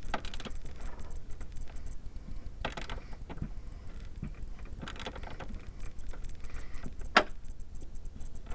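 Metal hand tools clinking and scraping as a nut is tightened on a stud, with irregular small clicks and a few sharper metallic knocks, the loudest about seven seconds in.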